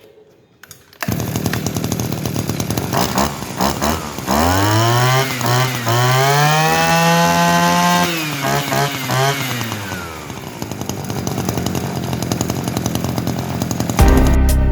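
Small Mitsubishi T180 two-stroke engine with a 36 mm cylinder, as used on a brush cutter or lawn mower, running. It is blipped a few times, then revved up and held high for several seconds, falls back, and settles to a steady run. Music comes in near the end.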